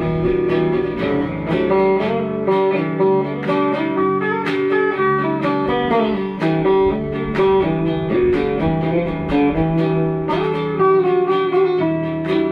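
Instrumental guitar passage of a song with no singing: a picked guitar melody over chords.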